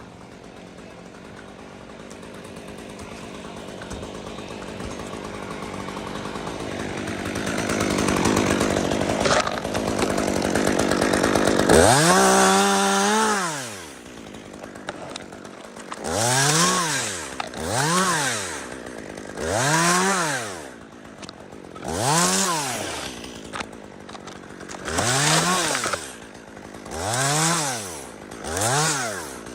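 Chainsaw being revved over and over, its engine pitch rising and falling about every two and a half seconds. Before that, for about the first twelve seconds, a noisy rushing sound builds up.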